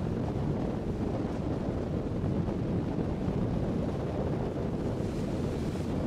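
Wind buffeting the microphone: a steady, low rumbling noise with no distinct tones.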